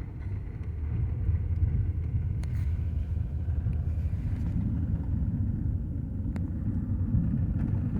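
Car driving, heard from inside the cabin: a steady low rumble of engine and road noise that swells slightly about a second in.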